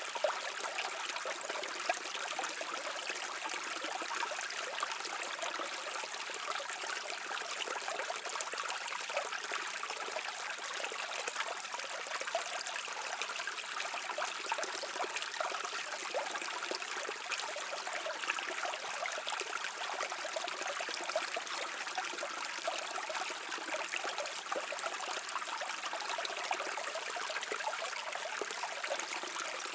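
A shallow stream babbling and trickling over stones, a steady flow of water with fine splashing and no pauses.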